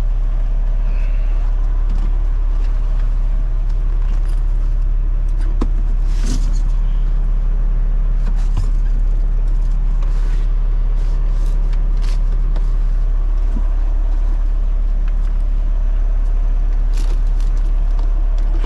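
Semi-truck diesel engine running with a steady low rumble, with a few light clicks and rattles now and then.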